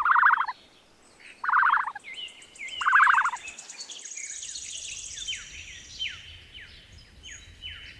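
Birds calling: three loud, short buzzy calls in the first three seconds, over many small birds' quick falling chirps and a high trill.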